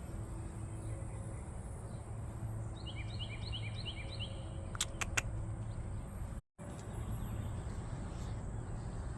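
Outdoor background noise with a steady low hum. About three seconds in, a bird gives a quick run of rising chirps, followed a second later by a few sharp clicks. The sound cuts out for a moment a little past the middle.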